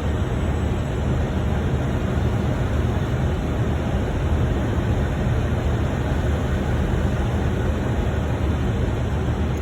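Steady cockpit noise of a Boeing 747-400 freighter on approach: an even, unbroken rushing drone of air and engines, deepest and strongest at the bottom.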